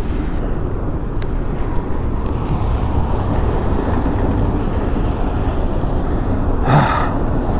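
Wind buffeting the microphone of a camera on a moving e-bike: a steady low rumbling noise, with a short louder burst of noise near the end.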